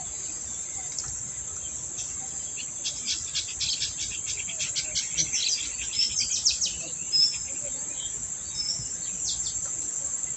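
Outdoor insect chorus, a steady high-pitched drone, with birds chirping over it in quick clusters that are busiest in the middle.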